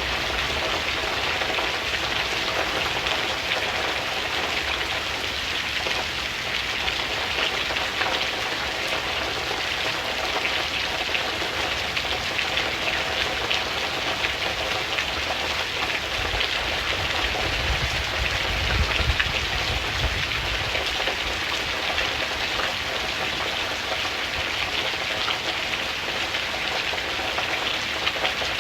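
Steady, heavy rain falling on a surface, a dense even patter. About two-thirds of the way through, a low rumble swells and fades over a few seconds.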